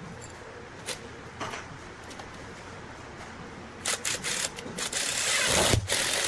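Wood lathe running with a steady hum while a tool works the spinning wood: a few short scrapes, a quick run of them about four seconds in, then a longer, louder continuous scrape near the end.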